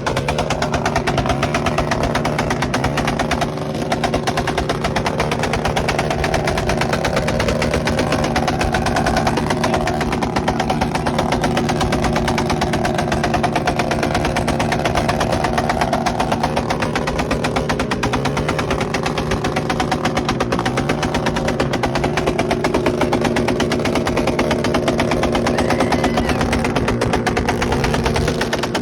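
Motorcycle engines running loudly and steadily with a rapid, even pulsing exhaust note.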